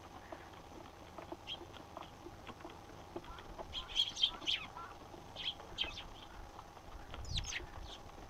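Eurasian tree sparrows chirping: short, sharp chirps in scattered clusters, busiest about four seconds in and again near the end.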